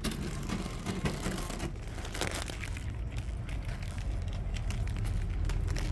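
Rustling and clicking handling noises over a low steady rumble that grows slightly louder near the end.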